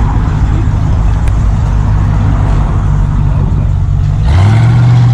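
A car engine running steadily nearby, then picking up in speed and getting louder about four seconds in.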